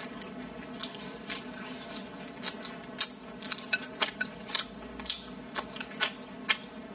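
Close-up chewing of a mouthful of rice and braised chicken: wet mouth noises with many short, irregular clicks, coming thicker and louder in the second half.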